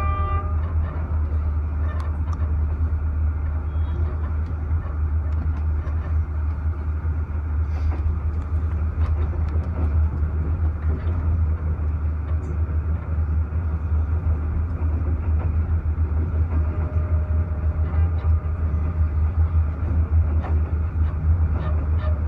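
Passenger train running at speed, a steady low rumble of wheels and carriage. A horn note cuts off just after the start.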